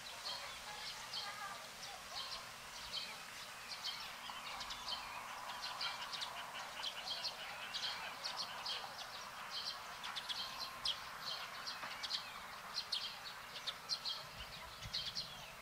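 Birds chirping: many short, high notes following one another in quick succession.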